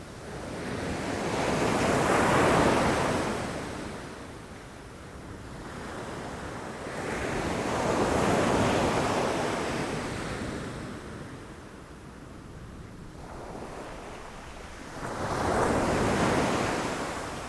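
Ocean waves breaking against rocks, three surges of surf that swell and recede, each cresting in a wash of noise about every six seconds, with wind underneath.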